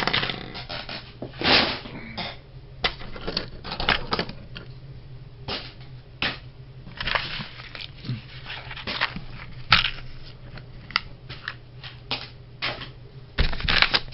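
Irregular clicks, taps and rustling of small hobby parts and bags being handled, over a faint steady hum.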